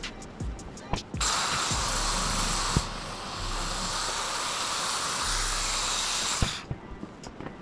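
A steady hiss lasting about five seconds, starting about a second in, with light clicks and taps before and after it.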